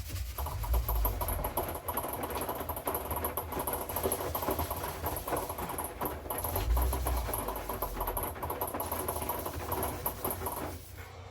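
Hoover washing machine drum tumbling the wash load, a steady churning with a low rumble, stopping suddenly near the end as the drum pauses.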